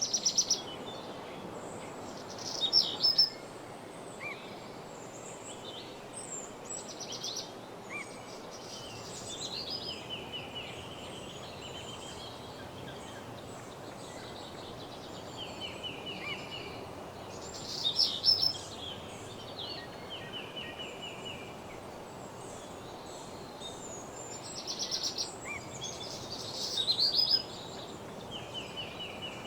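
Several small songbirds singing over a steady background hiss of woodland ambience: repeated short, high phrases and descending trills, with a few loud, rapid rattling trills at the start, about 3 s in, around 18 s, and twice near the end.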